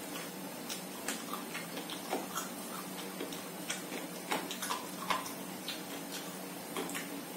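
A man chewing food close to the microphone: irregular wet mouth clicks and smacks, a few a second, over a steady low hum.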